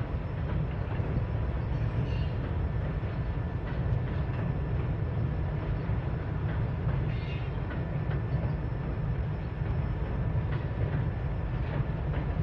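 Freight cars rolling across a steel truss trestle: a steady low rumble of wheels on the bridge with a few faint knocks.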